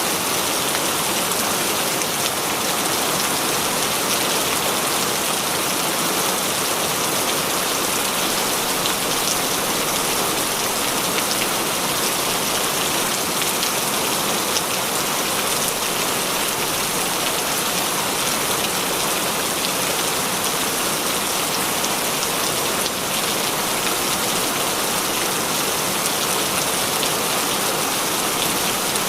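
Heavy rain falling steadily, a dense even hiss with fine drop ticks scattered through it.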